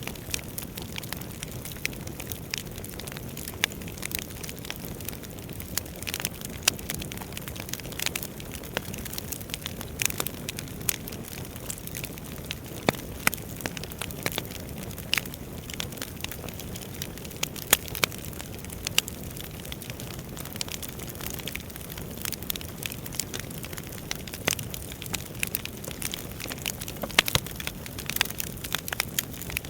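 Wood fire burning in a fireplace: a steady low rush of flames with frequent irregular crackles and occasional sharp pops of the burning logs.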